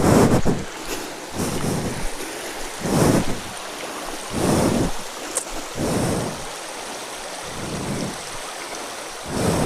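Stream water rushing over rocks, with a swell of noise about every one and a half seconds.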